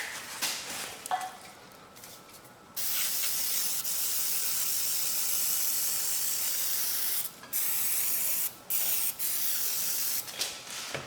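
Aerosol carburetor cleaner sprayed from a can onto a Briggs & Stratton mower engine's carburetor and governor linkage. A few light clicks of handling come first. About three seconds in there is one long spray lasting some four seconds, then three shorter bursts.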